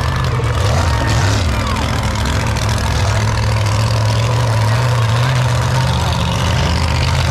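Large truck engine running steadily at a low, idle-like pitch that rises and falls slightly.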